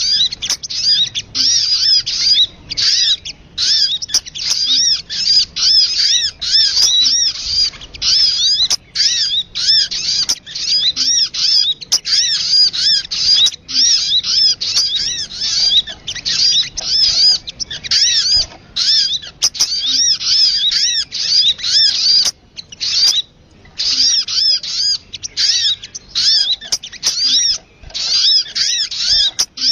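Sogun bird call: a loud, fast chatter of short, high, arching chirps, several a second, with brief breaks every few seconds. A call used as a trapping lure (suara pikat).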